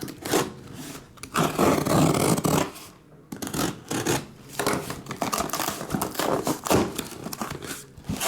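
Rustling, rubbing and scraping of a trading-card box's cardboard and plastic wrap being handled, in uneven stretches with short pauses.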